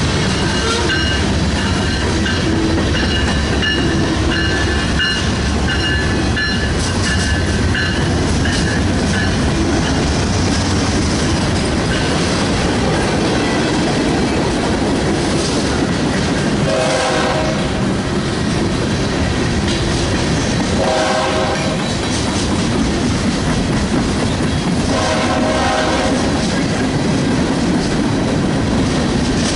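A train running past with a steady low rumble of locomotive engine and wheels. The locomotive's horn sounds three separate blasts about four seconds apart in the second half.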